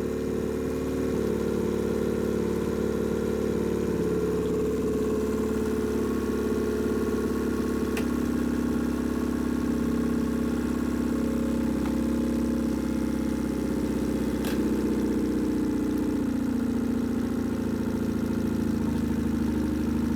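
2006 Nissan 15 hp four-stroke two-cylinder outboard motor idling steadily while it warms up.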